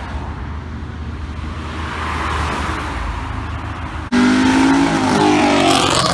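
Car engines running as cars drive off. About four seconds in, a much louder engine cuts in, revving as the car accelerates, its pitch dipping and climbing again.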